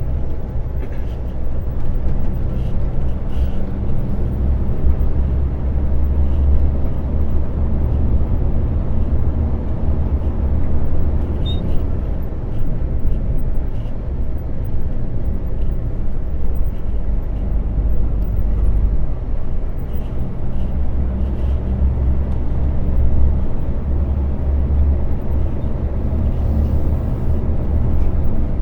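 Diesel lorry engine running while driving, a steady low drone with road noise.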